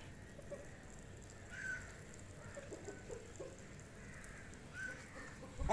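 Faint bird calls: short high calls about three seconds apart, with a few low clucks in the middle. A brief handling bump near the end is the loudest sound.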